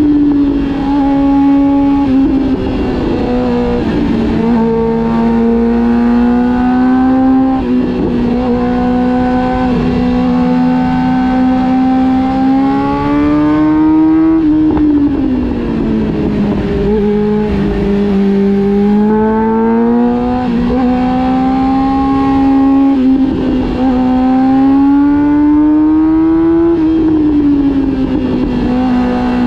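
Honda CB400 Super Four Revo's inline-four engine, heard while riding. Its high, smooth note climbs slowly with the throttle and drops back several times with gear changes and easing off, over a steady low rumble of wind and road noise.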